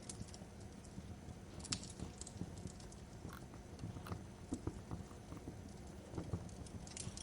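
Wood fire crackling in a fireplace: a steady low rumble with scattered sharp pops and snaps, a couple of louder snaps under two seconds in and near the end.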